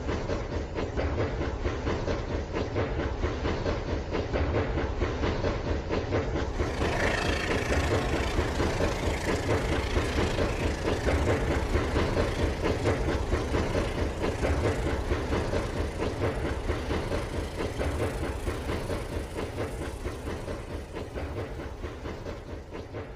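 Remote-control toy train running on its track: a steady motor whir with a rapid, even clatter of wheels.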